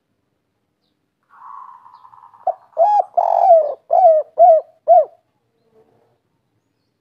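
Spotted dove (tekukur) singing one 'kuk 3' phrase: a soft rolling purr, then a run of about six loud coos, each dropping in pitch at its end.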